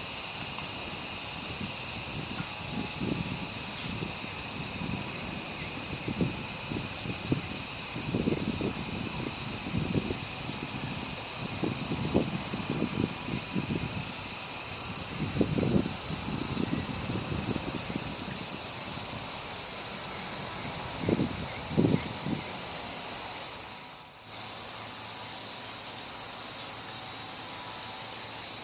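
Insects shrilling in a loud, steady, high-pitched chorus, with a brief dip about three-quarters of the way through before it carries on a little quieter.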